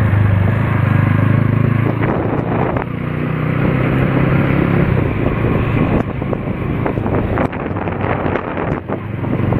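A vehicle engine running steadily at low revs, with wind buffeting the microphone and a few sharp knocks in the second half.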